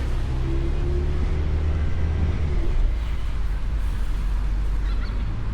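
Ford Mustang convertible driving, a steady low engine and road rumble. A pitched engine hum runs over it for the first three seconds or so, then fades.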